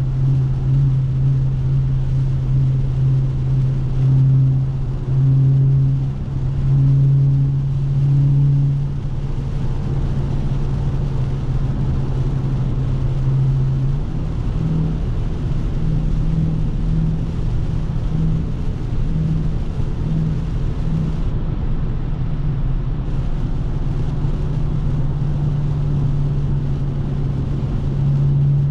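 Dodge Scat Pack's 392 HEMI V8 exhaust droning while driving, over steady road hiss. The drone swells and fades several times in the first few seconds, then holds steady, and steps up a little in pitch about halfway through.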